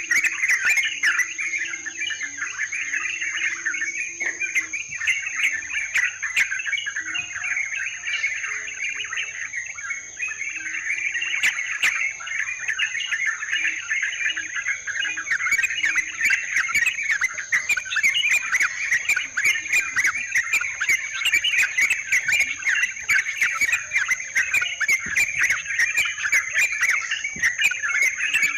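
Yellow-vented bulbuls (trucukan) chattering and calling non-stop in a dense, busy stream. A steady high insect whine runs underneath.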